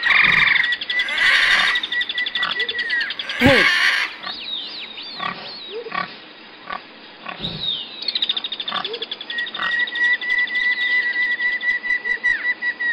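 Pigs grunting and squealing, with the loudest squeals in the first four seconds.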